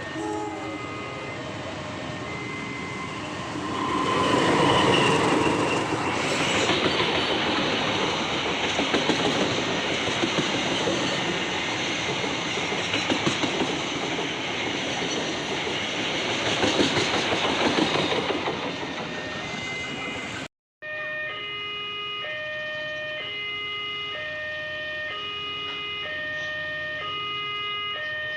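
A diesel-hauled train passes close by for about fifteen seconds, its wheels clacking over the rail joints, with a level-crossing warning alarm sounding at the start. After a sudden cut, a level-crossing alarm rings as a steady two-tone signal, alternating high and low about once a second.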